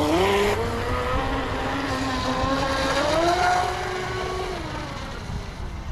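Brushless electric motor of a radio-controlled speedboat whining as it runs across the water, rising in pitch as the throttle opens near the start, climbing again a few seconds in, then dropping off near the end.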